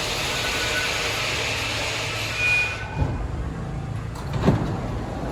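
New York City subway train running through the station: loud rushing wheel-on-rail noise with a faint brake or wheel squeal. The rush stops abruptly about three seconds in, leaving a steady low hum and a couple of thumps.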